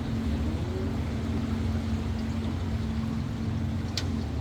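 Tour boat's motor running steadily with a constant low hum, with one sharp click near the end.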